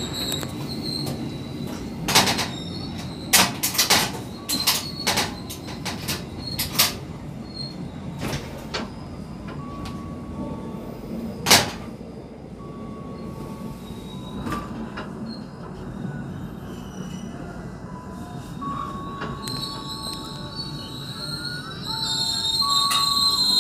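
Passenger train running on the rails, heard from the rear of the last car: a steady rumble with a run of sharp clicks from rail joints and points in the first seven seconds and a single loud knock about eleven seconds in. Near the end a high wheel squeal rises as the train slows for the station.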